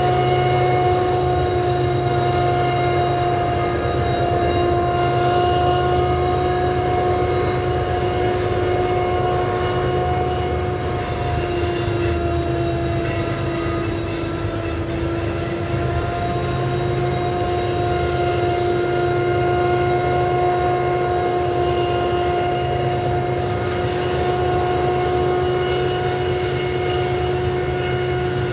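Loaded coal train rolling past: a steady rumble of hopper car wheels on the rails under a high, steady whine from a GE diesel locomotive. The whine dips slightly in pitch about halfway through and then recovers.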